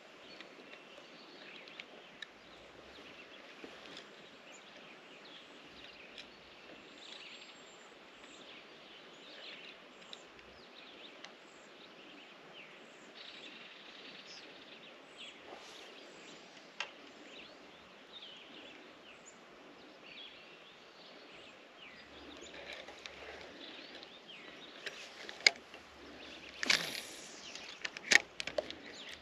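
Quiet outdoor ambience with birds chirping throughout. A few sharp clicks and knocks come near the end.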